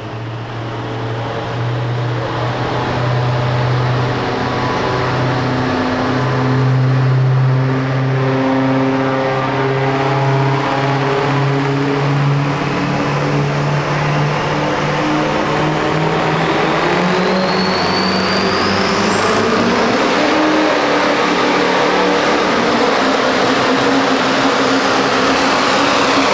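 Pro Street diesel pickup truck's engine running hard under load on a truck-pulling track. About two-thirds of the way through, a turbocharger whistle rises steeply and then holds high.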